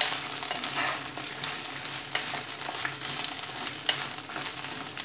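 Cut okra sizzling steadily as it shallow-fries in oil in a clay pot, stirred with a wooden spatula that clicks against the pot a few times. The okra is being lightly fried first so the pieces hold together in the curry.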